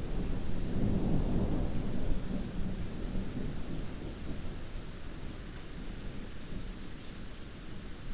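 Heavy rain falling steadily under a low rumble of rolling thunder, the rumble loudest in the first couple of seconds and then easing off.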